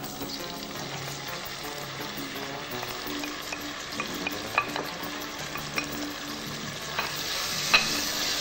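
Diced red pepper sizzling in hot olive oil in an enamelled cast-iron casserole, stirred with a wooden spoon, with a few sharp knocks. The sizzle grows louder near the end as the pepper is sautéed.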